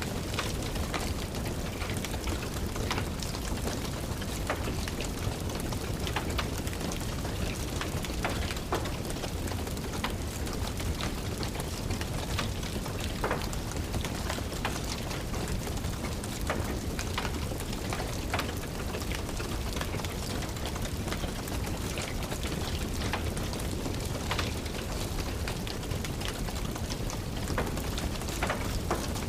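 Steady rain falling, with many sharp crackles and pops from a wood fire in a fireplace scattered through it.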